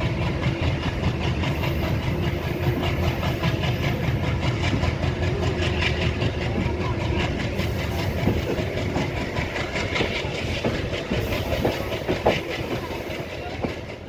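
Express passenger train running along the track, heard from an open coach door: a steady clatter of the coach wheels over the rails over a low rumble.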